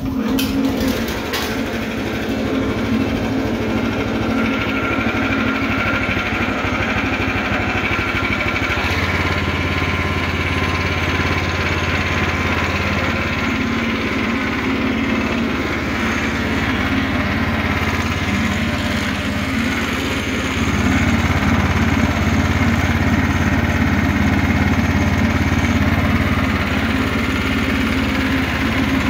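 Newly fitted 301 cc Harbor Freight single-cylinder four-stroke engine on a DR field and brush mower, catching on its first start and then running steadily. It grows louder about a third of the way in and again about two-thirds through.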